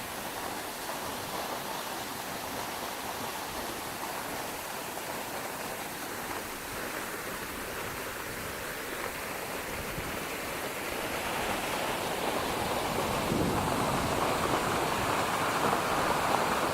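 Waterfall rushing steadily, growing clearly louder about twelve seconds in.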